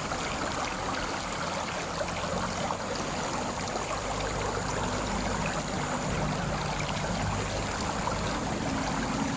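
Steady rush of flowing stream water, with a faint low hum underneath.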